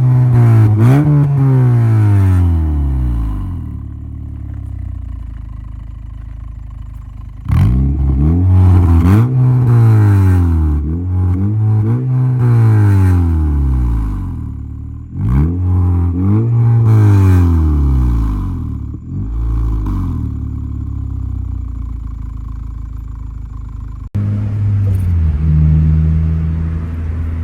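A 2013 Honda Civic Si's 2.4-litre four-cylinder engine revved in repeated blips through a new Invidia N1 cat-back exhaust with its removable silencer fitted, each rev rising and falling in pitch, in several groups; it sounds loud even with the silencer. Near the end, after a sudden break, the engine runs at a steadier, lower note.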